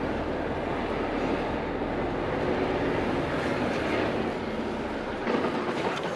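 Heavy goods vehicle running, a steady rumble of engine and rolling noise, with a few louder knocks near the end.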